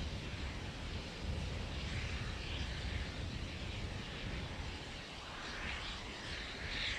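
Steady low wind rumble on an outdoor microphone, with a soft hiss swelling twice.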